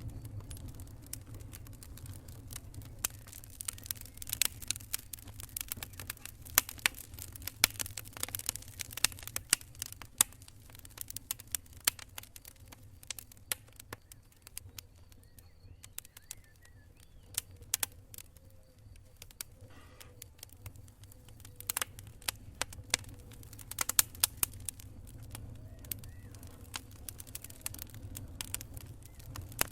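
Wood campfire crackling: irregular sharp pops and snaps, in thicker runs and then sparser for a few seconds around the middle, over a steady low rumble.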